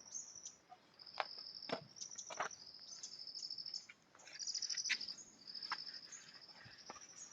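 Insects trilling in short, high-pitched pulsed bursts that repeat one after another, with a few brief sharp clicks mixed in.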